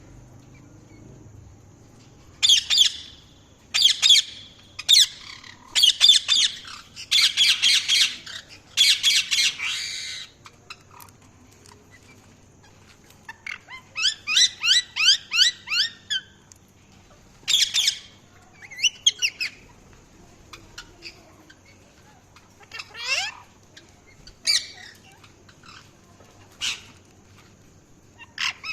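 A parrot squawking and chirping in shrill, high-pitched calls. The calls come in a burst of repeated squawks, then a quick rapid run of calls, then scattered single calls toward the end.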